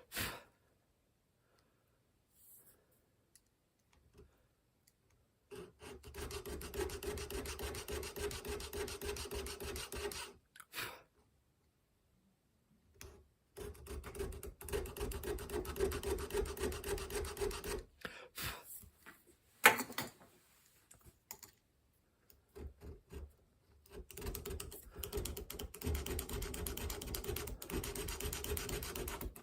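A hand tool rasping in rapid back-and-forth strokes, in three spells separated by pauses, with a single sharp knock about two-thirds of the way through.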